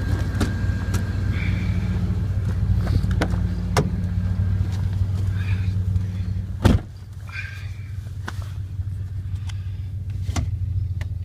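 1999 Dodge Ram 1500's 5.2-litre Magnum V8 running steadily, with scattered light clicks. About two-thirds of the way through there is one loud clunk, and after it the engine sound drops and runs quieter.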